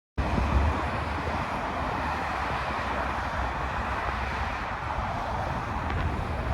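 Steady vehicle rumble with a hiss over it, cutting in abruptly at the start and holding even throughout.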